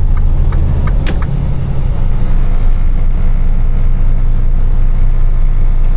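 Semi-truck diesel engine running under way, heard from inside the cab as a steady low drone; its pitch shifts about a second in, with a sharp click at that moment.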